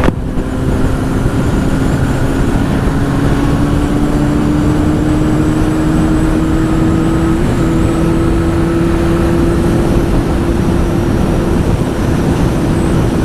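Honda CBR1000 sportbike's inline-four engine with an aftermarket Two Brothers exhaust running at speed, its note rising slowly and steadily as the bike gathers pace. Wind rushes over the helmet microphone underneath.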